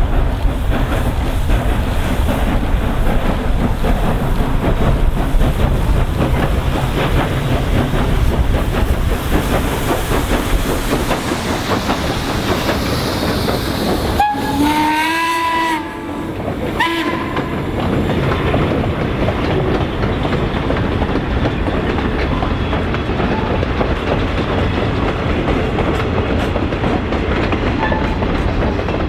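A train running past with its wheels clattering over the rail joints. About halfway through it sounds one short blast of its whistle or horn, then a brief second toot.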